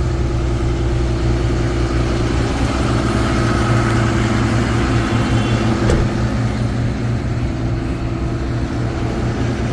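The 6.7-litre Cummins turbo diesel of a Ford F-750 idles steadily. There is a single sharp click about six seconds in.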